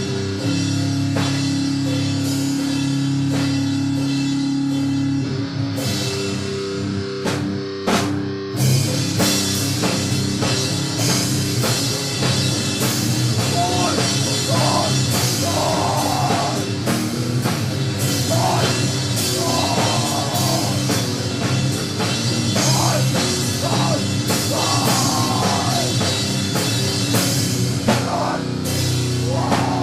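Doom-metal style band music: heavily distorted guitar and bass holding long low notes, with a few separate hits, then the drum kit comes in about eight seconds in with steady, regular beats and cymbals under the droning guitars.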